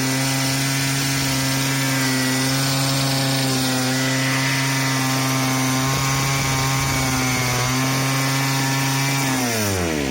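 Muffler-less 43cc two-stroke scooter engine running steadily at high revs, then falling in pitch near the end as it winds down. Its carburetor is untuned, so it runs but not quite right, which the owner puts down to the carburetor.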